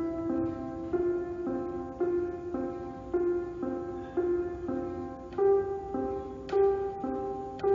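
Background music: a slow, gentle piano melody with notes struck about once a second, shifting up in pitch about five seconds in.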